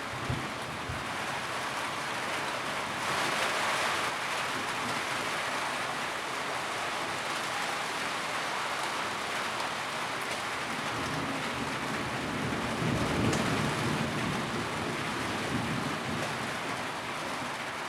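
Steady rain on a tin roof, a dense even patter. It briefly grows heavier a few seconds in, and a low rumble swells and fades in the second half.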